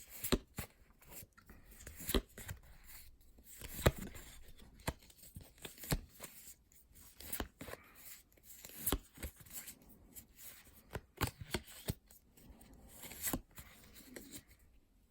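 Pokémon trading cards handled and flipped through by hand: irregular clicks and slides of card on card, with light rustling.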